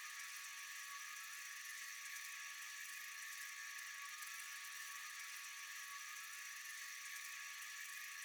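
Night insect chorus: a steady, high-pitched shrilling hiss that holds unchanged throughout.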